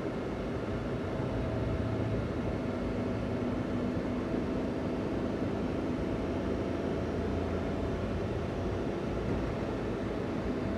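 Daihatsu Hijet kei van driving, its stock-exhaust 660 cc three-cylinder engine running at a steady pitch over road rumble.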